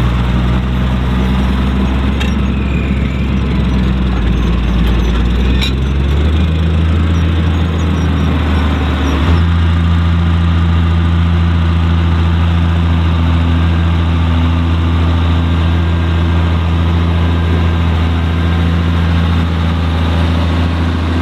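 Fendt 818 Turboshift tractor's diesel engine running steadily, its engine speed stepping up twice, about six and nine seconds in, then holding at the higher speed.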